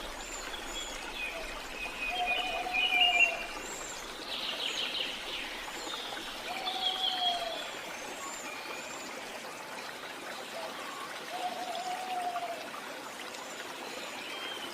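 Steady rush of flowing water from a jungle waterfall or stream, with birds calling over it. A short, low, arched call repeats about every four to five seconds, and higher chirps and trills come and go.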